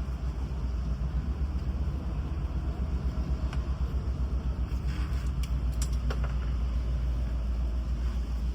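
Honda Civic B16 engine cranking on the starter without catching, a low rumble with an even pulsing rhythm and a few light clicks near the middle; the car cranks but will not start.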